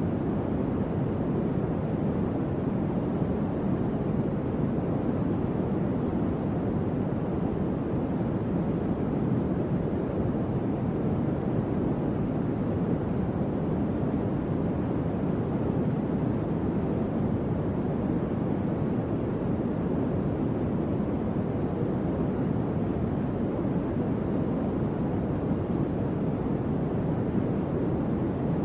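Electric fan running steadily: an even, low whooshing noise with no hum tone or rattle.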